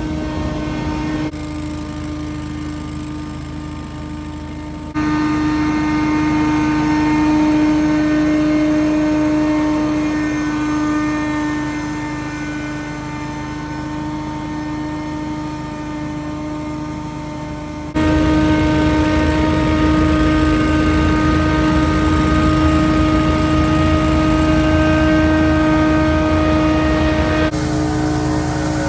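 Scag Windstorm stand-on leaf blower running steadily at full throttle: a steady engine-and-fan drone with a constant pitch. Its loudness and tone change abruptly several times.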